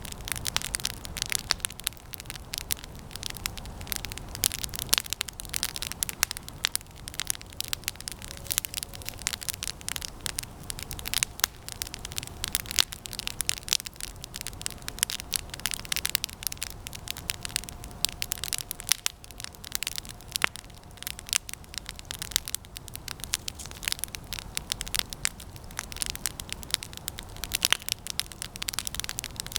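Campfire of resinous pine branches burning, with dense irregular crackling and popping throughout. A faint thin whistle runs for several seconds in the middle.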